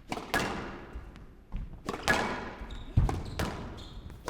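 Squash rally: the ball struck by rackets and hitting the court walls, about seven sharp echoing hits, roughly one every half second to second. Two short squeaks of court shoes on the floor in the second half.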